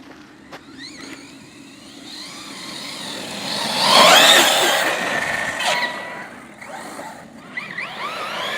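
Arrma Notorious 6S RC truck's brushless electric motor whining as the truck speeds around, the pitch sliding up and down with the throttle; loudest about four seconds in as it comes close, then fading, with a few short rising whines near the end as it accelerates again.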